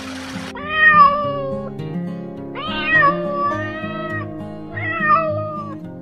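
A domestic cat meowing three times, the middle meow the longest, over background music. A hiss of running water cuts off about half a second in, just before the first meow.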